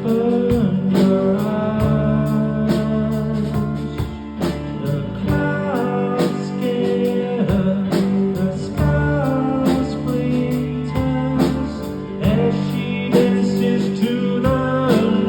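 Live band playing a bluesy rock song: guitar with bending notes over bass and a steady drum beat.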